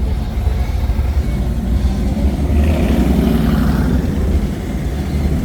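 A car engine running close by, swelling a little about halfway through and then easing off, over a steady low rumble.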